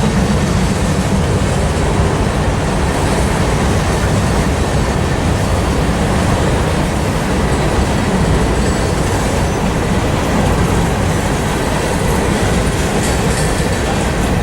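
A freight train rolling past at trackside, its steel wheels on the rails making a loud, steady rumble.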